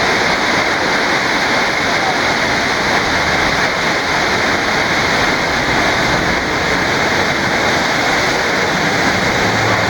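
Waterfall pouring nearby, a loud, steady rush of falling water.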